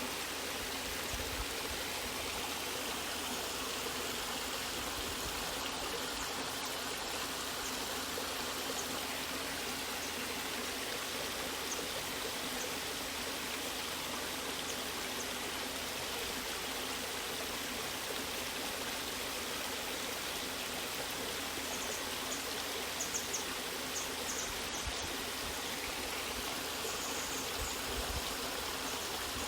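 Waterfall: a steady, unbroken rush of falling water, with a few faint high ticks about three-quarters of the way through.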